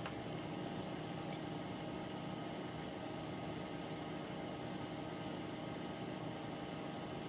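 Electric fan running steadily: an even whir with a faint hum, drawing away solder flux fumes.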